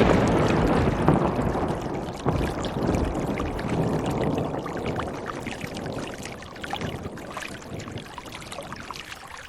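A rushing, pouring noise with scattered small clicks, loud at first and slowly fading.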